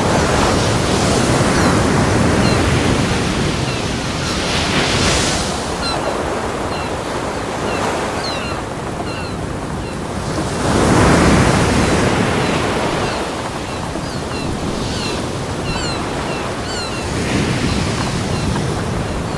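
Ocean waves breaking on a beach: continuous surf that swells and ebbs, with the biggest wave washing in about eleven seconds in and smaller ones near five and seventeen seconds.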